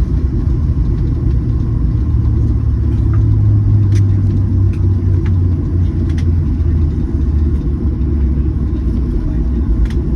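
Airliner cabin noise during the landing roll: a steady low rumble of the engines and the wheels on the runway, with a few faint rattling clicks from the cabin.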